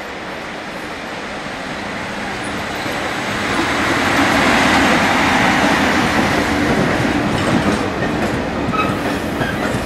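SBB Re 620 (Re 6/6) electric locomotive hauling a freight train of hopper wagons past at speed. The rolling noise of wheels on rail grows louder as the locomotive draws near and passes, about four seconds in, then holds steady as the wagons roll by with a clickety-clack.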